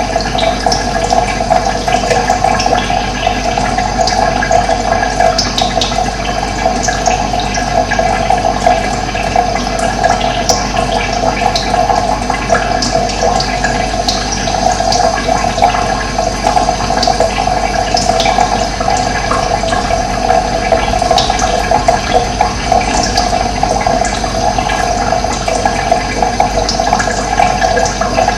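Running water flowing steadily, with birds chirping now and then over it.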